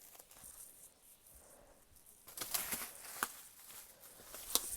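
Rustling with a few sharp clicks, louder for a moment about halfway through.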